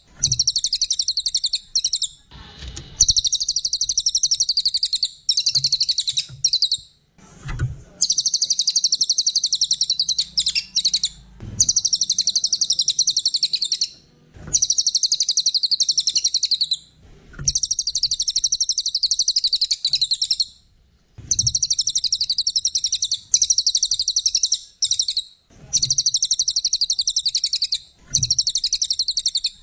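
Cililin songbird singing vigorously: long, rapid, high-pitched chattering trills in phrases of about two seconds, with brief pauses between them.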